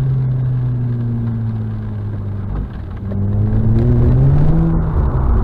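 Mazda RX-8's two-rotor 13B rotary engine running. Its pitch eases slightly downward, then climbs as the revs rise from about three seconds in, and falls away again near the end.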